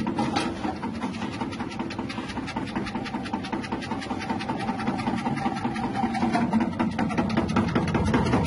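Electric chip-slicing machine for cassava and potatoes running, its 180-watt motor humming steadily with a fast, even rattle from the spinning blade disc.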